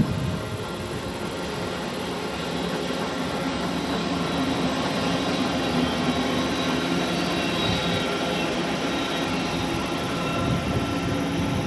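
Electric train running past on the line, a steady rumble with a faint whine from its traction motors.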